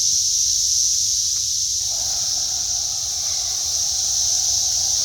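Cicadas buzzing in a steady, high-pitched chorus. A fainter, lower steady drone joins about two seconds in.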